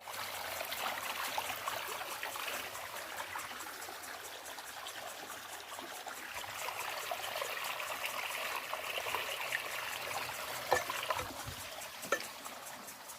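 Water trickling steadily, as in a small stream, with two sharper clicks near the end.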